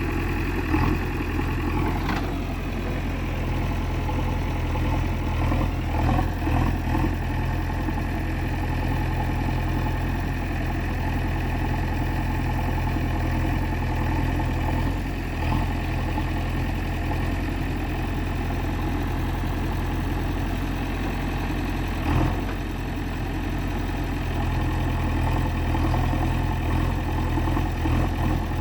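Heavy diesel engine running steadily at a constant speed, with a few brief louder clunks and surges along the way.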